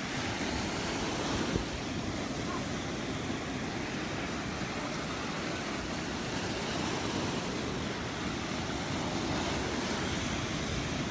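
Gulf of Mexico surf washing steadily onto the beach, with some wind on the microphone.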